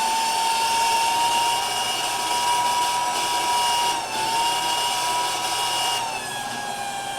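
Small electric water-transfer pump motor whining steadily while its intake hose is moved from one water jug to the next. The pitch dips briefly about four seconds in and drops lower about six seconds in.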